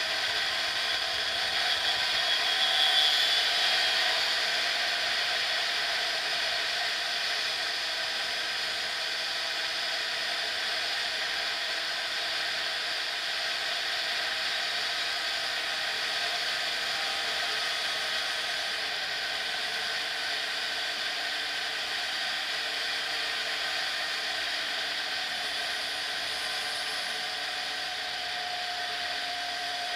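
Derbi X-Treme dirt bike engine running at high, steady revs while riding at speed, heard from the rider's helmet; the revs and loudness swell briefly about three seconds in.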